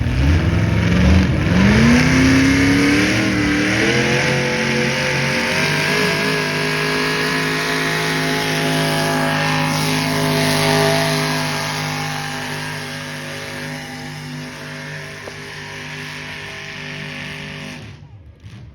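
A pulling vehicle's engine revs up over the first few seconds, then holds a steady high pitch at full throttle under load, slowly growing quieter. The sound cuts off abruptly just before the end.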